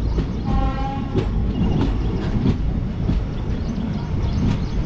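Indian Railways passenger train running, heard from on board: a steady heavy rumble with the wheels clicking over rail joints. A short, steady horn blast sounds about half a second in.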